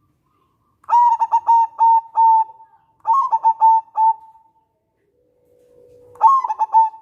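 Zebra dove (perkutut) singing: three cooing phrases, each a quick run of short stuttering coos ending in a drawn-out note, about a second in, about three seconds in, and near the end, with silences between.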